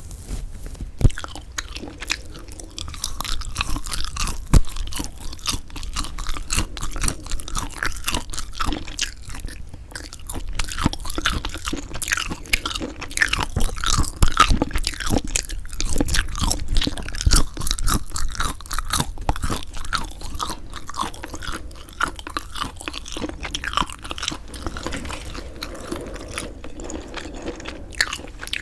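Close-miked chewing of semi-dried squid: dense, irregular crunching and wet, crackling chews of the firm, rubbery flesh, with occasional sharper bites.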